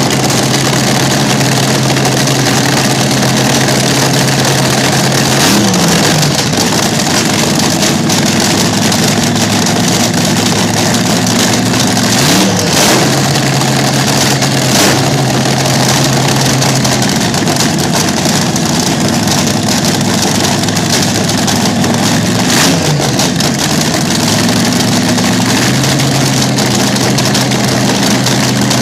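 Vintage slingshot dragster's engine idling loudly and steadily, revved up and let back down three times.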